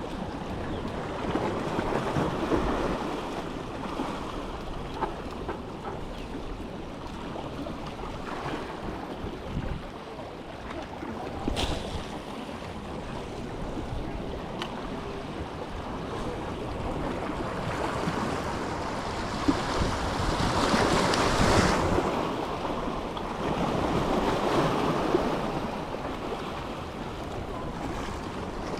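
Waves washing and breaking against the jetty, with wind buffeting the microphone; the surf swells louder twice in the second half.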